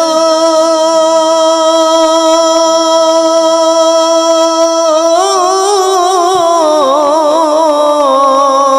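A solo voice singing a Bengali gojol (Islamic devotional song). It holds one long steady note for about five seconds, then turns into an ornamented run with vibrato.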